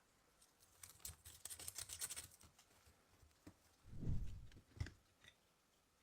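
Small parts or tools being handled on a workbench: about a second of quick scratchy clicks, then a dull thump about four seconds in and a single click just after.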